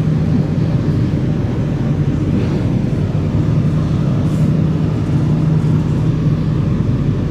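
Singapore MRT Circle Line train running at speed through a tunnel: a steady low hum over the rumble of wheels on rail.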